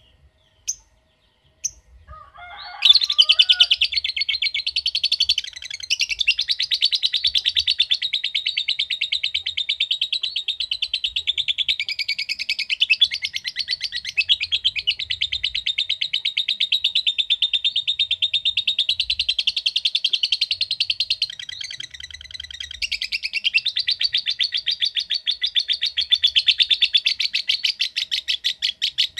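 Lovebird ngekek: a few single sharp chirps, then a long unbroken chatter of rapid high-pitched chirps that falters briefly about two-thirds of the way through and carries on.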